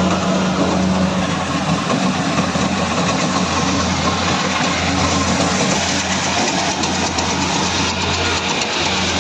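Kubota combine harvester running steadily: a constant low engine hum under an even mechanical noise from the working machine.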